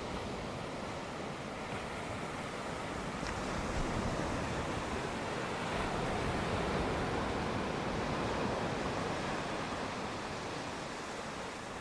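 Sea waves washing onto the shore, an even rushing surf that swells in the middle and eases off near the end, with wind on the microphone.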